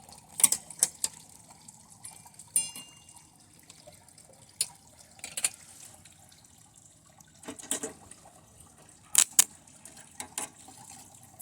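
Scattered sharp crackles and pops at irregular intervals, with a brief buzz about two and a half seconds in: a TV circuit board arcing and burning under high current from a lead-acid battery.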